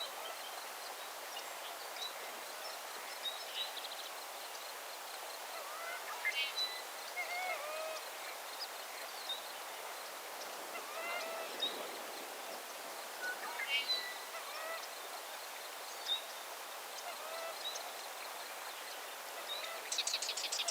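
Birds calling outdoors: scattered short chirps and curving calls, some in quick runs, over a steady background hiss.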